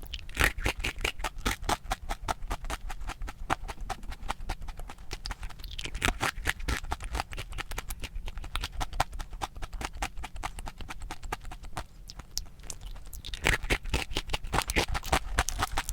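Close-miked crunchy chewing: rapid crisp crunches, several a second, from eating a crispy ice cream cone.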